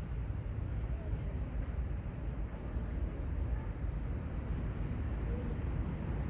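Outdoor seaside ambience: a steady low rumble with faint, high insect chirps repeating in short groups.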